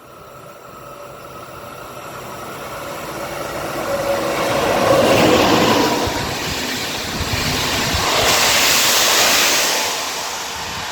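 A train approaching and passing through the station, its noise building steadily over about five seconds and staying loud, with a second swell near the end.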